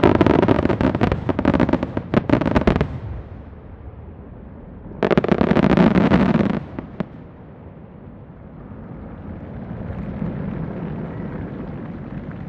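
Aerial fireworks shells bursting: a rapid volley of sharp cracks for the first three seconds, then after a short lull a second dense burst about five seconds in, trailing off into a low rolling rumble.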